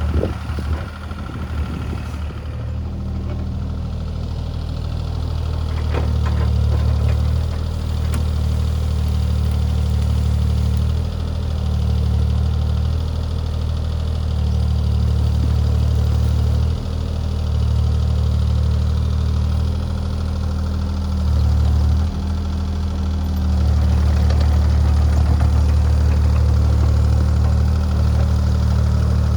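Diesel engine of compact earthmoving equipment running steadily at work, its note stepping up and down several times as the load changes.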